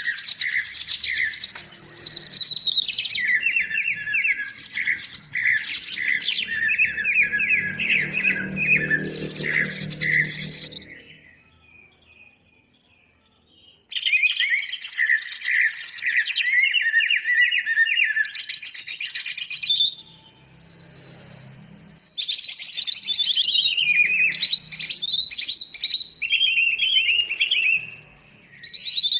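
Cucak ijo (green leafbird) singing a fast, varied song packed with mimicked phrases of other birds, in three long bursts with short pauses between.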